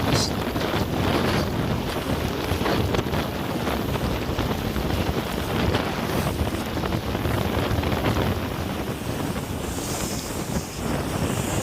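Jet ski running over the water, with heavy wind noise buffeting the microphone.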